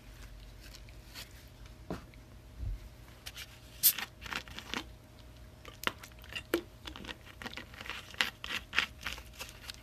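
Plastic wrapping being torn and crinkled by hand, with a run of short, sharp crackles starting about four seconds in.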